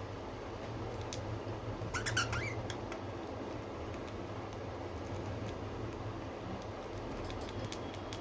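A pet budgie gives a brief squeaky chirp about two seconds in, over a steady low hum, with a few sharp little clicks scattered through.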